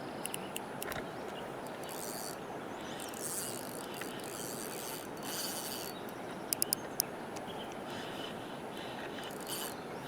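Fishing reel being cranked in short spells of winding, with three sharp clicks in quick succession about six and a half seconds in, over a steady rush of creek water.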